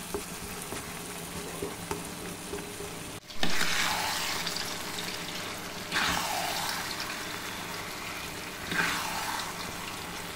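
Red chilli pickle paste frying in oil in a kadai while a metal spatula stirs it: a steady sizzle that swells three times and fades back each time.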